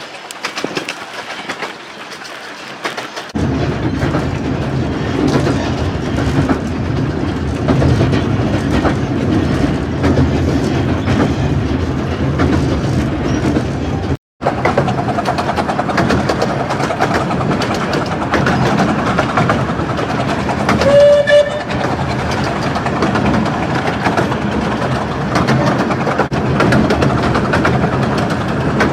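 Romney, Hythe and Dymchurch Railway 15-inch-gauge miniature train running through the station: a steady rumble and clatter of wheels on the rails starts a few seconds in. There is one short toot about three quarters of the way through.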